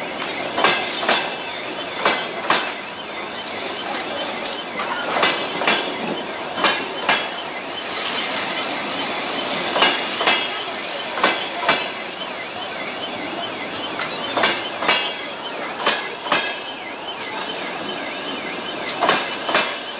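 Passenger train coaches rolling slowly past, their wheels clicking over a rail joint in double beats, a pair of clicks every one to three seconds, over a steady rolling rumble.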